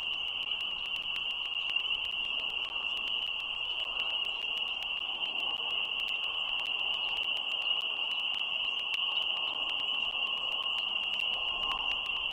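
Steady chorus of calling frogs, heard as a continuous high-pitched band of sound with a softer, lower chorus beneath it.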